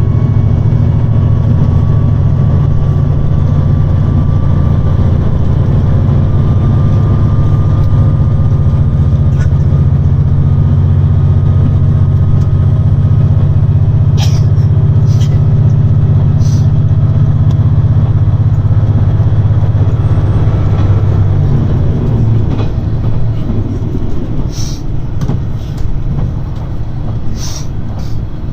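JR Shikoku 2700 series diesel railcar's underfloor diesel engine running hard under acceleration, heard loud inside the car, its tone rising slowly. About 21 seconds in the engine eases off and the sound drops, leaving the wheels clicking over rail joints.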